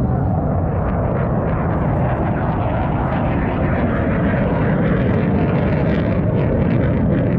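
An airplane flying at an air show, its engine noise a loud, steady rush that is heaviest in the low end.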